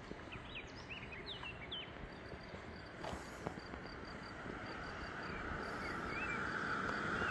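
Outdoor ambience of small birds chirping in short rising and falling calls, a cluster in the first two seconds and a few more near the end. Under them runs a steady hiss that swells louder over the last couple of seconds, with a faint regular ticking in the middle.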